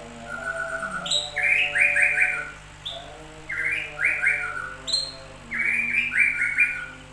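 A songbird singing the same short phrase three times, about two seconds apart; each phrase is a high note that drops away, followed by a quick run of falling chirps.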